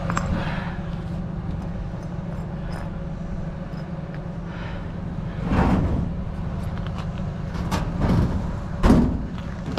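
A few sharp knocks and thuds, beginning about five and a half seconds in, as heavy scrap and a brick are shifted and set down on a truck, over a steady low rumble.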